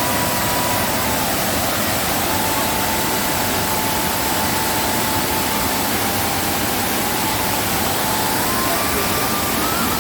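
Waterfall in rainy-season flood, heavy water rushing with a loud, steady, unbroken noise.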